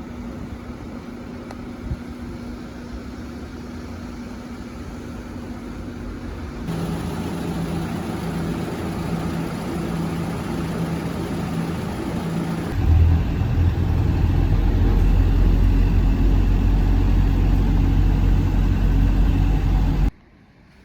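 A vehicle running with a steady engine hum, in three cut-together stretches. About two-thirds of the way in, a much louder, deep rumble takes over, and it cuts off abruptly just before the end.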